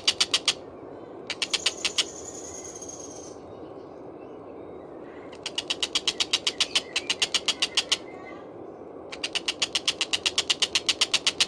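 Tengkek buto (collared kingfisher) calling: loud, harsh, rapid chattering strings of about eight notes a second, in bursts of two to three seconds. A thin high whistle runs briefly after a short burst early on. A steady low hiss lies underneath.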